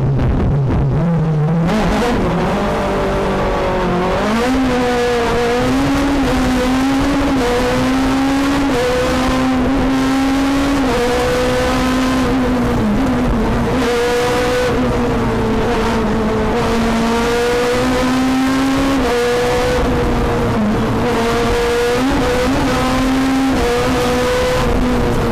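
Renault Clio F2000 rally car engine driven hard. Its note climbs from low at the start, then stays high, rising and dipping again and again as the driver works the throttle and gears.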